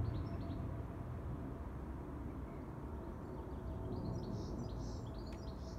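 Small birds chirping, with a cluster of short high chirps near the end, over a steady low background rumble.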